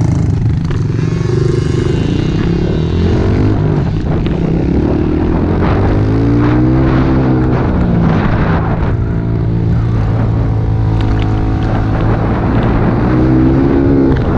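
Small single-cylinder four-stroke pit bike engines running, one engine's revs repeatedly rising and falling as it is ridden through the gears while another holds a steadier drone underneath.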